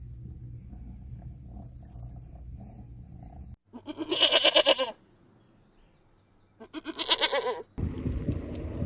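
A steady low rumble, then a goat bleating twice, each bleat about a second long with a wavering, quavering pitch and a pause of a second and a half between them.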